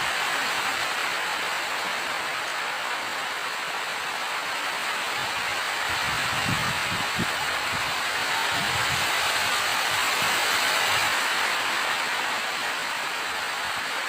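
Steady rain falling, an even hiss, with a few soft low thuds a little past the middle.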